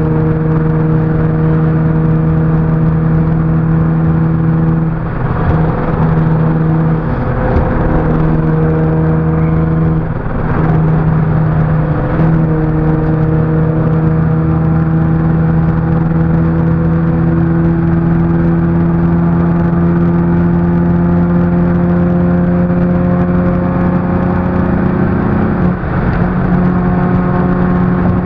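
Car engine heard from inside the cabin while driving at highway speed: it accelerates with a few quick gear changes in the first half, then holds a steady drone that slowly rises in pitch.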